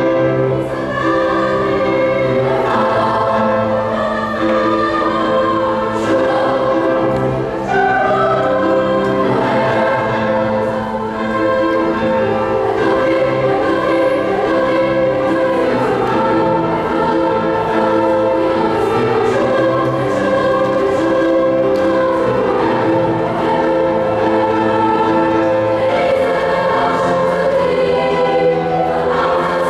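Choir singing in several-part harmony, with long held notes that move together between chords.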